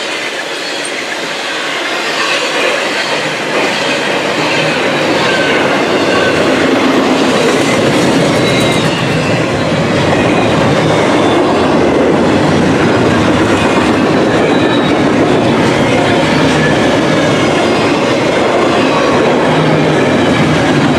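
Double-stack container freight train rolling past: steady rumble and clatter of steel wheels on rail, with faint high wheel squeals. It grows louder about six seconds in.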